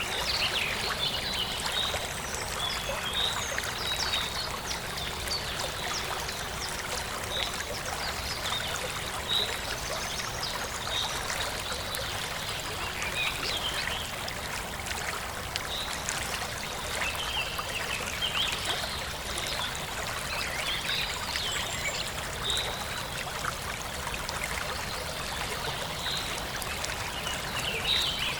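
Forest stream flowing and trickling steadily over rocks, with birds chirping repeatedly throughout in short high calls.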